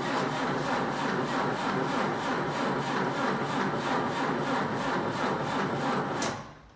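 1962 Jeep M170's Willys F-head four-cylinder engine cranking over on the starter without catching, a steady rhythmic churn, because there is no gas in it. The cranking stops suddenly about six seconds in.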